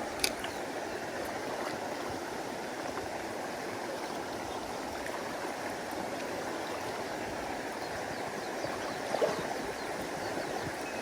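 Mountain stream water rushing and gurgling steadily over rocks. A sharp click comes just after the start and a short knock about nine seconds in.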